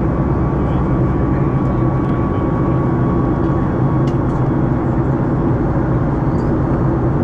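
Steady engine and cabin noise inside a Boeing 737 MAX 8-200, its CFM LEAP-1B turbofans running with a deep hum and rushing air. A faint thin whine fades out about four seconds in.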